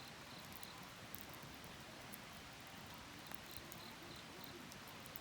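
Faint crackle of a wood bonfire, with thin scattered clicks over a soft hiss and a few faint insect chirps.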